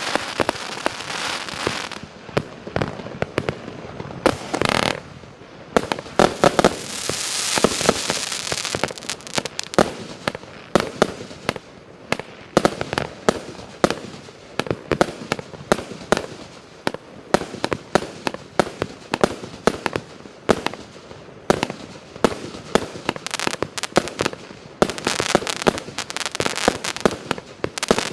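A 150-shot, 1-inch-calibre firework cake firing: a rapid, irregular string of sharp pops and bangs, with stretches of hissing crackle near the start, about a third of the way in and near the end.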